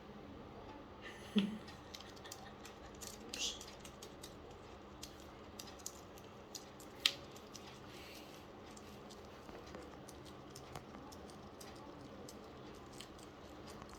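Sparse light clicks and taps over low room noise, with one sharper click about seven seconds in.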